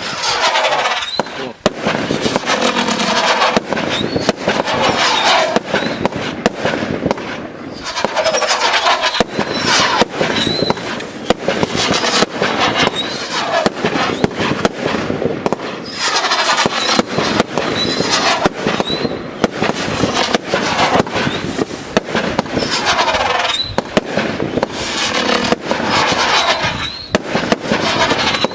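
Coco 50-shot firework barrage firing in quick succession. Shots launch with squealing, sweeping whistles from their spinning rising tails and burst with sharp cracks, in waves every two to three seconds.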